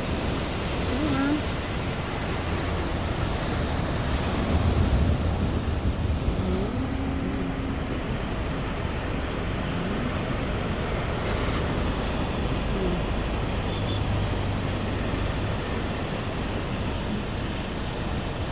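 Steady rush of wind and sea water around a small boat, with a low, even motor hum underneath.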